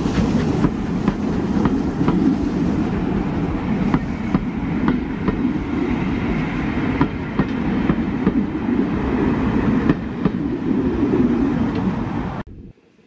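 Passenger coaches rolling past on the rails: a steady rumble with repeated clickety-clack of the wheels over rail joints. The sound cuts off suddenly near the end.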